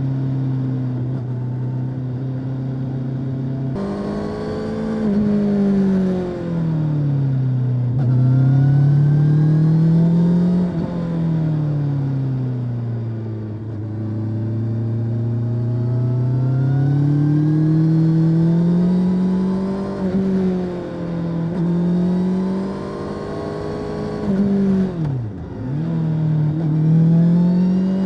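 Honda CB650R inline-four engine through its stock exhaust. It holds a steady note for a few seconds, then rises and falls repeatedly as the bike accelerates, eases off and shifts. There is a quick sharp drop and rise in pitch about 25 seconds in.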